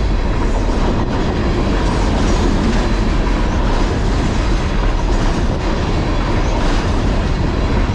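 Long freight train of empty garbage-container cars passing at about 41 mph: a steady, loud rumble and rattle of steel wheels rolling on the rails.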